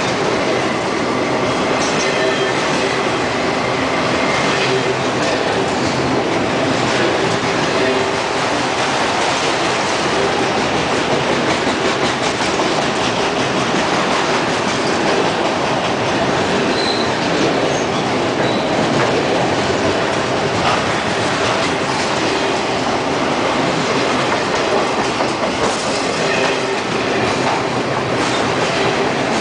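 Autorack freight cars rolling past close by: a steady, loud rumble and clatter of steel wheels on the rails. Two short high squeaks come just past the middle.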